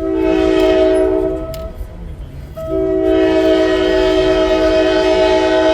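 Locomotive air horn sounding for a road crossing: a blast of about a second and a half, a gap of about a second, then a second long blast that is still sounding at the end. Several steady tones sound together as a chord, over a low rumble.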